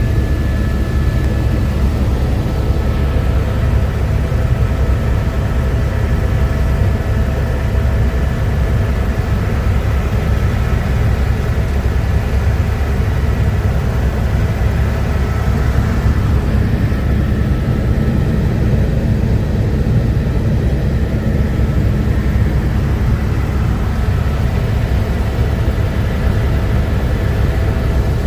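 Helicopter in flight heard from on board: a loud, steady rotor and turbine drone, heavy in the low end, with faint steady whining tones above it.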